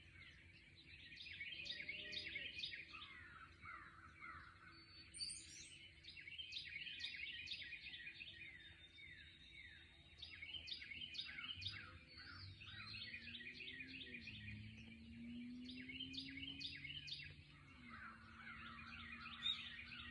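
Songbirds singing, overlapping phrases of quick chirps with short pauses between them. In the second half, a faint low drone slowly rises and falls in pitch underneath.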